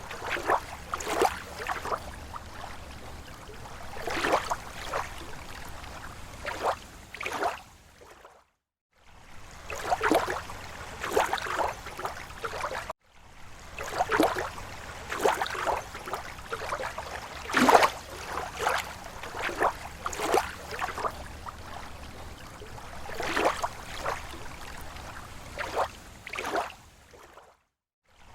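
Small slow waves lapping at a lake shore: irregular soft splashes and gurgles, a few each second, over a steady wash of water. The sound breaks off twice into a brief moment of silence.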